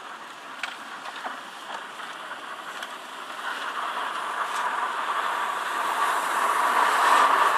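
TDI 150 diesel car under way, heard from the cabin: a breathy, whooshing air noise that grows louder as the engine revs climb toward 2000 rpm. This is the 'blower' noise the owner is recording as a fault.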